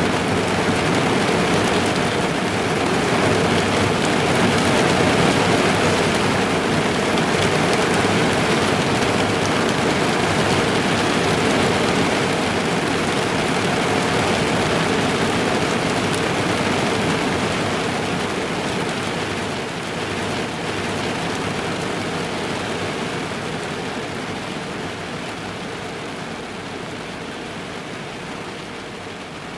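Rain falling on a car's roof and windows, heard from inside the car: a dense, steady patter that eases off gradually over the last dozen seconds or so.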